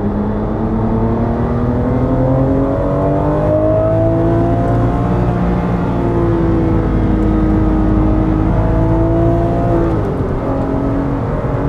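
Porsche 996 GT3's 3.6-litre flat-six heard from inside the cabin under hard acceleration, its pitch climbing steadily. The revs drop about halfway through and again near the end, then climb on.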